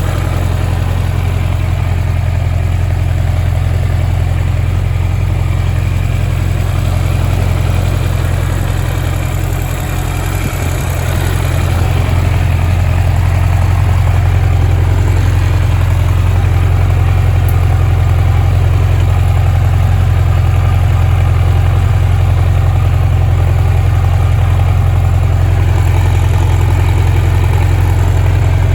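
Kawasaki Z1000R2's air-cooled inline-four engine idling steadily, a little louder from about twelve seconds in.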